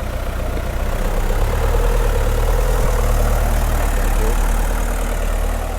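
Dump truck's engine running, louder from about a second in and easing off near the end.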